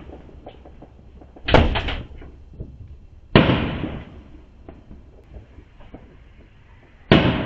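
Fireworks exploding: a quick cluster of several bangs about a second and a half in, a single loud bang with a long echoing decay at about three and a half seconds, and another loud bang near the end.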